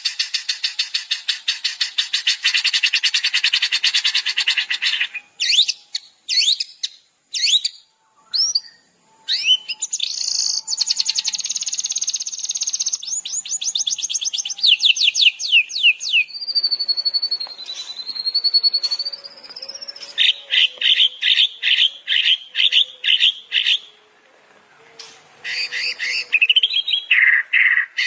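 Songbird song played as a masteran tutor track for training cage birds. It opens with a fast rattling trill, then moves through a varied string of chirps, sweeping notes and fast note series, with a long wavering whistle in the middle and a brief pause near the end.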